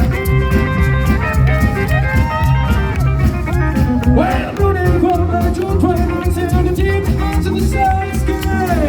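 Live rockabilly band playing, with a steady bass and drum beat under a lead line of bending, gliding notes.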